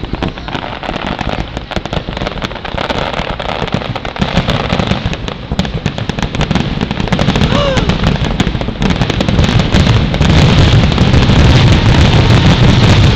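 Aerial fireworks going off in rapid, overlapping bangs and crackles, growing denser and louder, loudest in the last few seconds.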